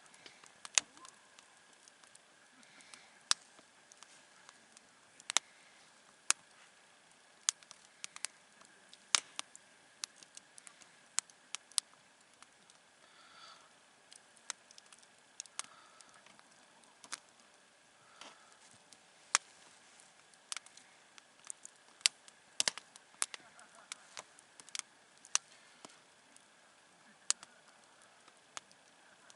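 Wood campfire crackling: sharp, irregular pops and snaps, a few a second, with faint soft hissing between them.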